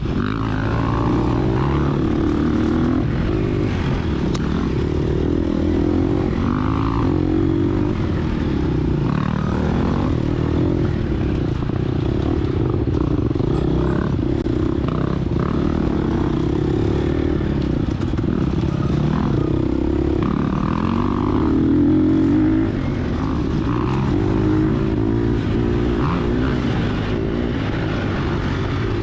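Gas Gas EX250F dirt bike's 250 cc four-stroke single-cylinder engine, its pitch rising and falling again and again as the throttle is opened and closed through the trail.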